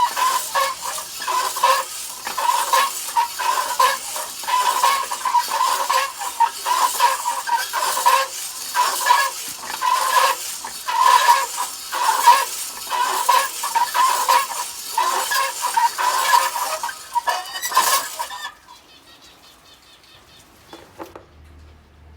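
Birds calling over and over in short, quick notes. It stops about eighteen seconds in, leaving only a faint background.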